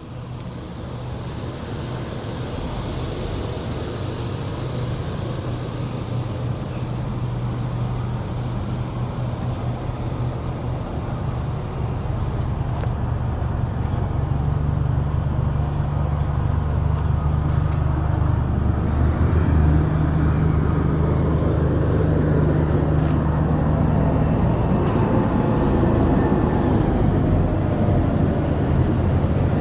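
Motor vehicle engine running with road noise, a steady low drone that shifts pitch a couple of times and grows louder through the first half.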